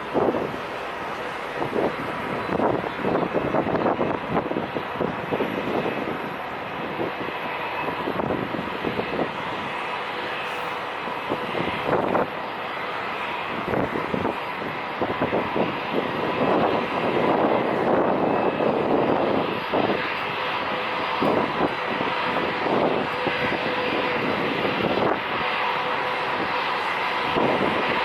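Airliner engines running at takeoff power through a takeoff roll: a steady rush with a sustained whine over it. Wind gusts buffet the microphone.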